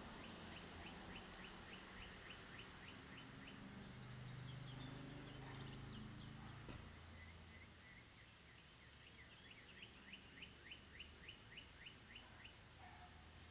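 A songbird singing a fast series of repeated short, falling notes, about six a second, in two runs of two to three seconds each; faint, over a steady outdoor background.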